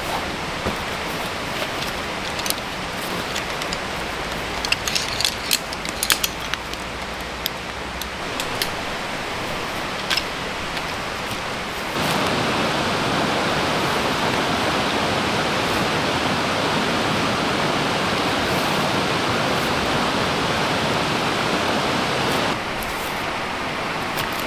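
A stream flowing steadily, with a few light clicks and knocks of handling in the first half. About halfway through, a louder, brighter rushing sound cuts in suddenly and stops just as suddenly near the end.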